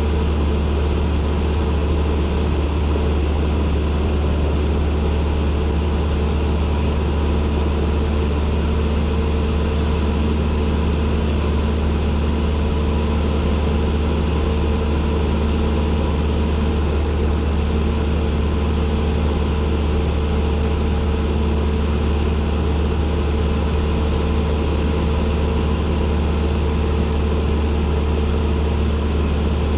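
Cessna 172N's four-cylinder Lycoming engine and propeller running at a steady, unchanging power in flight, a loud even drone heard from the cockpit.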